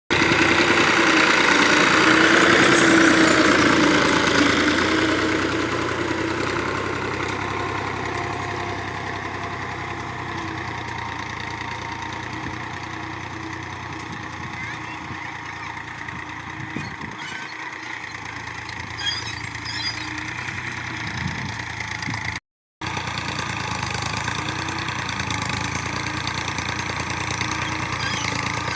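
Tractor's diesel engine running, louder over the first few seconds and then settling to a steady run.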